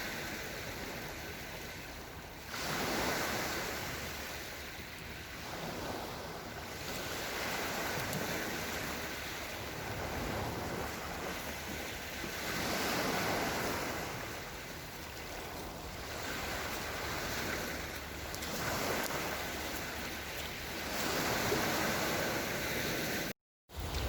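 Small Black Sea waves washing onto the shore, the surf swelling every two to three seconds. The sound cuts out for a moment near the end.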